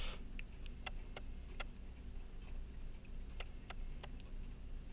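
Light, sharp clicks at uneven intervals as small tools touch the parts of a pocket watch movement under repair.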